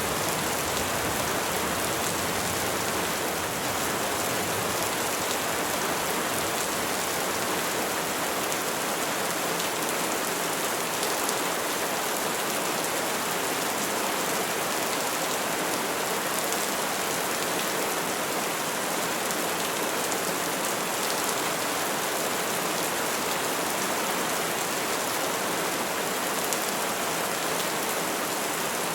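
Steady rainfall on trees and foliage: an even hiss of many drops with no thunder.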